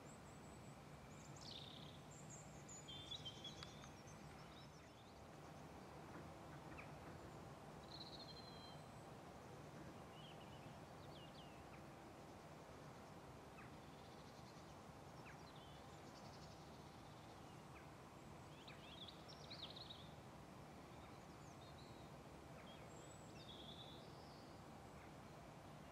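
Near-silent countryside: scattered short bird chirps, a few clustered together, over a faint steady low hum.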